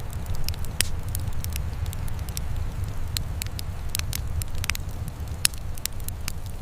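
Fire burning in a fireplace, crackling with frequent irregular sharp pops over a steady low rumble; one pop about five and a half seconds in stands out as the loudest.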